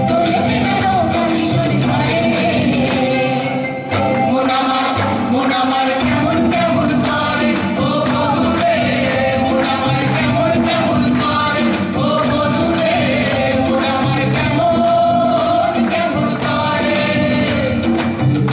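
Live folk music: a sung melody over a band, with steady percussion beating through. The music briefly drops in level about four seconds in.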